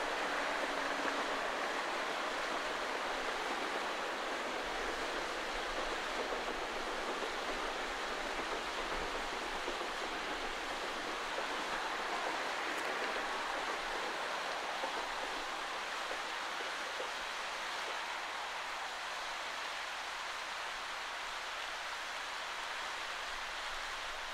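Distant Class 1000 electric multiple unit passing across a hillside: a steady rushing rumble that slowly fades.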